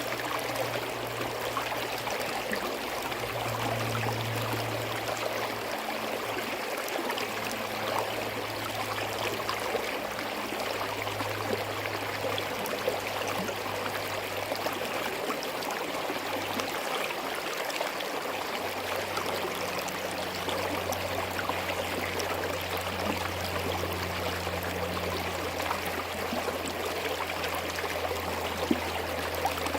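Small forest stream flowing over rocks, a steady, even babble and trickle of running water.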